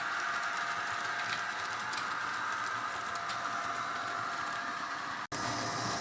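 Model BR 232 diesel locomotive running on the layout: a steady whirr of motor and wheels on the track. The sound drops out abruptly for an instant about five seconds in.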